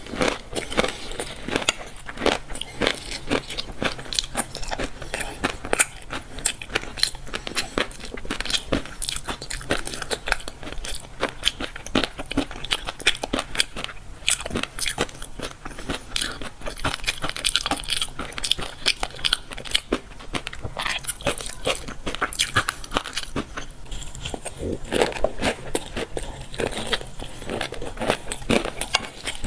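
Close-miked chewing of fish roe, the eggs popping and crackling in a rapid, continuous stream of small clicks.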